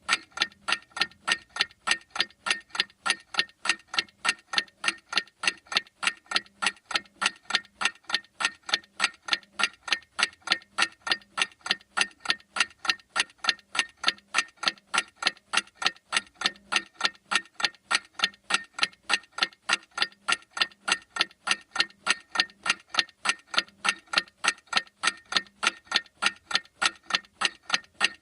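Clock ticking: sharp, evenly spaced ticks, about three a second, steady throughout.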